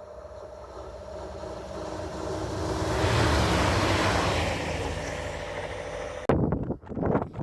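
A train passing: a steady hum with a few held tones swells to its loudest about three seconds in and then eases off. Near the end it cuts off abruptly, giving way to wind buffeting the microphone.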